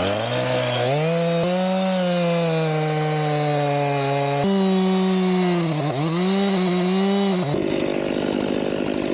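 Two-stroke chainsaw cutting into a log. The engine revs up over the first second or so and holds a steady pitch under load. It dips and recovers briefly about six seconds in, and its sound changes about seven and a half seconds in.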